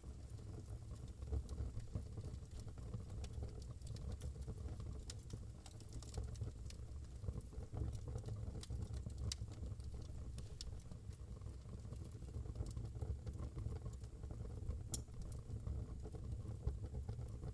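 Wood fire crackling in a fireplace: scattered sharp pops and snaps at irregular intervals over a low steady rumble.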